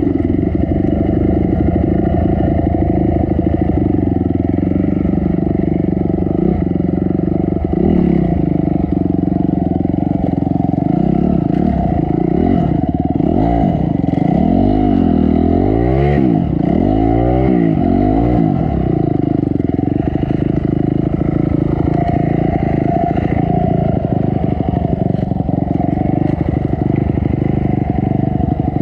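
Honda CRF250 dirt bike's single-cylinder four-stroke engine running hard on a trail ride, revved up and down several times in quick succession about halfway through, then settling back to a steady pull.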